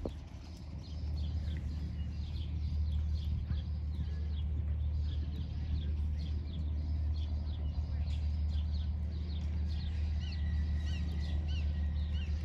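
Small birds chirping and singing in quick runs of short high chirps, with a few clearer repeated notes near the end, over a steady low rumble.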